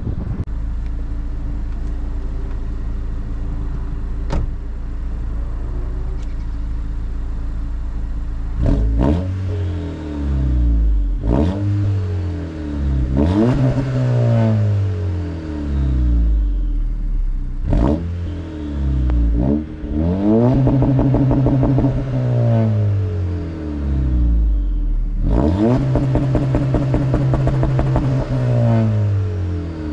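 2022 Honda Civic Si's 1.5-litre turbocharged four-cylinder, with an aftermarket downpipe and stock exhaust, idling steadily and then blipped through several quick free revs that rise and fall. Twice the engine is held at a steady rpm with a fast stutter, the two-step launch control limiter.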